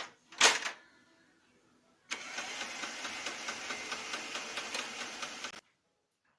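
Lexmark X364dn laser printer's mechanism running for about three and a half seconds with a regular rapid ticking grind, then stopping abruptly. A sharp knock comes shortly before it starts.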